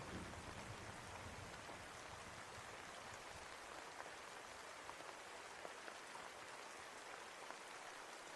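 Steady rain, an even hiss with scattered drops ticking, while the low rumble of thunder dies away over the first two or three seconds.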